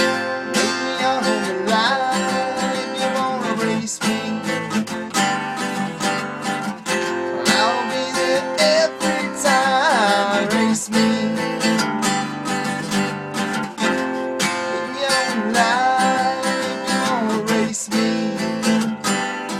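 Instrumental break of a song: strummed acoustic guitar with a lead melody of bending, gliding notes over it.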